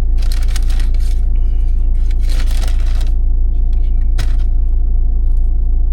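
Steady low rumble of a vehicle cabin with the engine running. Two bursts of rustling food packaging come in the first three seconds, and a sharp click a little after four seconds.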